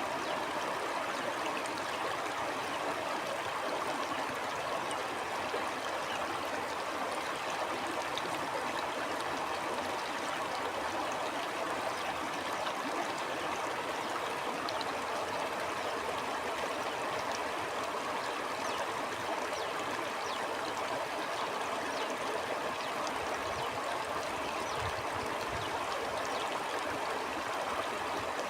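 Stream flowing steadily over rocks, a continuous rushing and gurgling of water.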